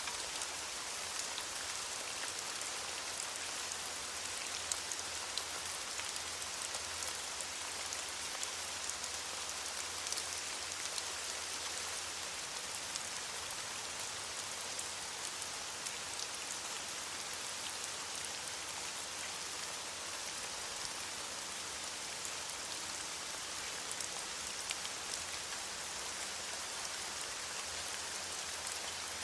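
Steady rain falling on leaves, an even hiss with many small drop taps scattered through it.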